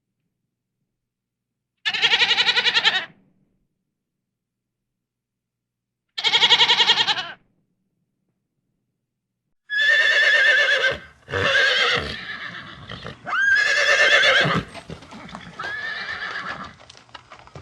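Farm animal calls: two separate calls of about a second each, about two and six seconds in. From about ten seconds on, a horse whinnies and neighs repeatedly, several calls with pitch glides.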